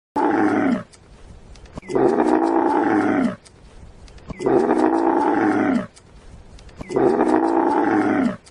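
Camel calling: four long, low, throaty calls with short pauses between them.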